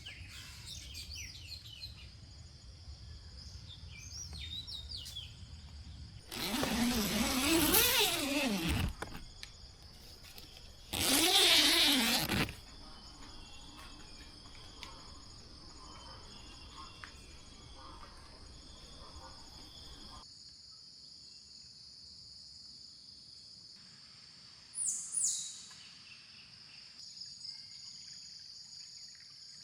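Tropical forest morning ambience: a steady high drone of insects, likely cicadas, with birds chirping and one sharp falling bird whistle near the end. Two loud bursts of sound, about two and a half seconds and one and a half seconds long, break in about six and eleven seconds in.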